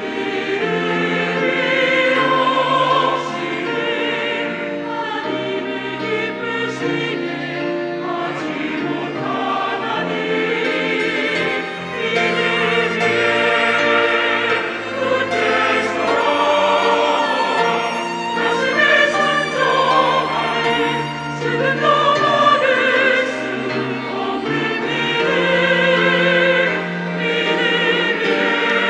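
Church choir singing an anthem in several parts with accompaniment, the voices holding long notes with vibrato.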